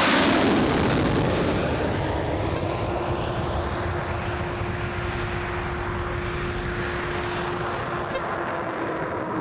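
Jet aircraft engines running loud, with a steady whine over a rumbling rush. The noise peaks at the very start and then eases a little to a steady level.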